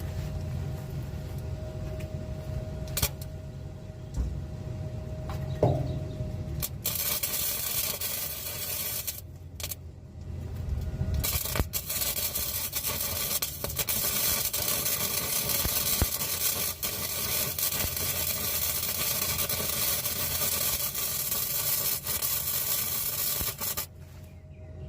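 MIG welder arc crackling and hissing while patching holes in a rusted exhaust pipe to stop an exhaust leak. The crackle comes in a short run about seven seconds in, then a long run from about ten seconds in until shortly before the end. Before the welding starts there is a low steady hum with a few clicks.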